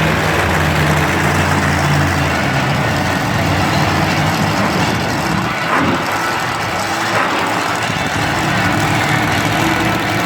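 Monster truck engine running loudly: a steady low drone for the first couple of seconds, then a rougher, noisier rumble at the same loudness.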